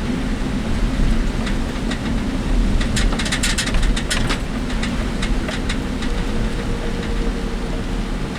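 Inside a work vehicle's cabin while driving: a steady engine and road rumble, with a burst of rattling clatter from the body about three to four seconds in and a few lone rattles elsewhere.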